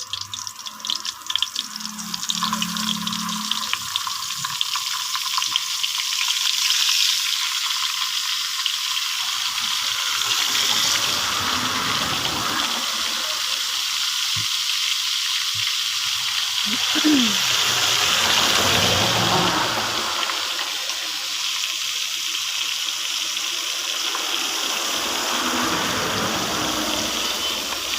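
Breaded chicken feet and chicken heads deep-frying in hot cooking oil: a steady sizzle that builds over the first few seconds as the pieces go in, then holds.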